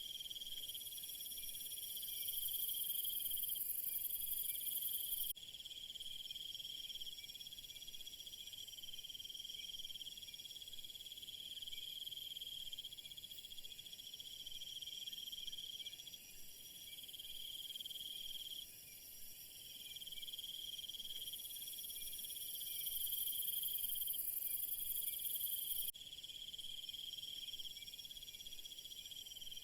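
Chorus of insects chirping, high-pitched and steady. The chorus swells louder twice, and each time it cuts off suddenly: about five seconds in and again near the end.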